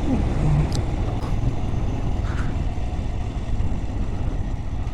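Motorcycle riding along at road speed: a steady low rumble of engine and wind noise with no letup.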